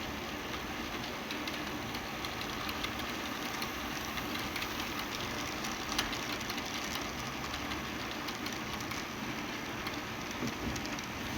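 HO-scale model train running on track: a steady motor hum and wheel noise with many small scattered clicks.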